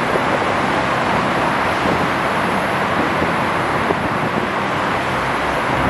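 Steady, loud running noise of a Thai railway diesel commuter train: an even rumble and hiss with no breaks.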